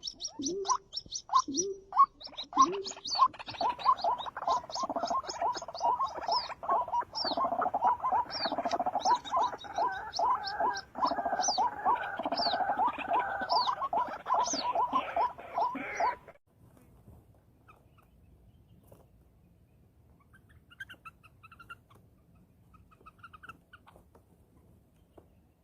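A dense run of rapid, short animal calls and high chirps, several a second, that cuts off suddenly about two-thirds of the way through, leaving near-quiet with a few faint chirps.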